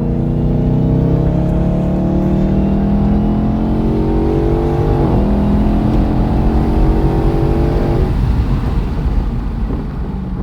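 Car engine at full throttle, heard from inside the cabin, rising in pitch through the revs. It shifts up about halfway through and climbs again. About eight seconds in the driver lifts off the throttle and the engine note drops away, leaving road and tyre noise.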